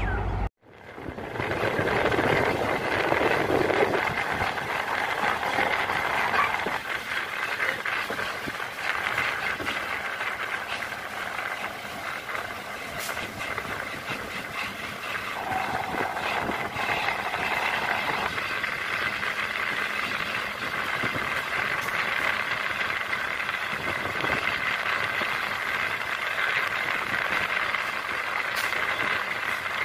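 Running noise of an electric MEMU passenger train, heard from its open doorway while under way: a steady rumble and rattle of the coach on the track with a steady high whine running through it. The sound cuts out briefly just after the start, then the running noise carries on unbroken.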